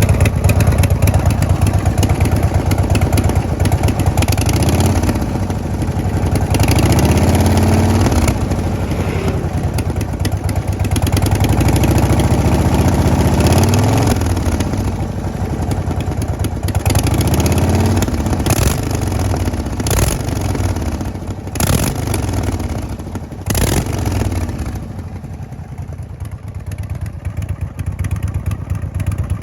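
A 2009 Harley-Davidson Road Glide's Twin Cam 96 V-twin running through a Vance & Hines exhaust. It idles and is revved up and let fall back several times. A few sharp cracks come in the second half, and it settles back to a steadier, quieter idle near the end.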